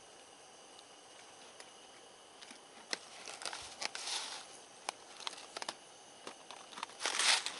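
Faint steady insect chirring, then from about three seconds in a run of sharp clicks and rustling, loudest near the end, like something being handled close by.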